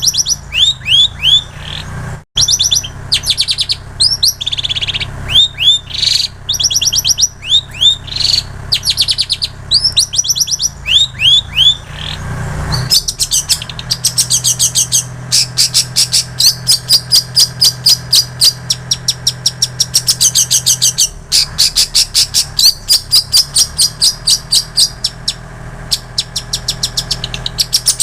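Long-tailed shrike singing a mimicking song, stocked with phrases learned from bar-winged prinia and canary. For the first half it gives short phrases of rapidly repeated down-slurred whistles with brief gaps; from about halfway it switches to fast, continuous chattering trills.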